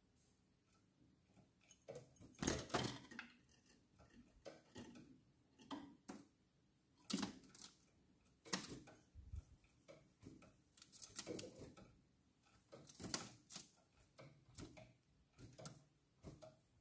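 Scattered light taps and clicks, a few close together at a time, of a tame caged nightingale hopping and pecking about its cage and newspaper-lined floor. No song.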